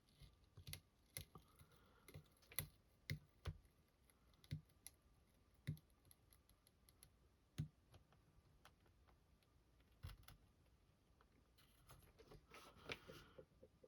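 Faint, irregular clicks and taps of a small 3D-printed plastic part being handled and trimmed at a workbench, with a short scraping stretch near the end.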